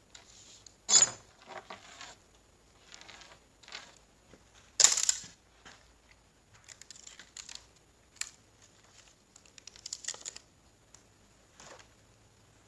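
Small metal parts of a 4L60E automatic transmission clicking and clattering as it is taken apart by hand, with light rattles in between. There is a sharp knock about a second in, and the loudest knock comes near five seconds.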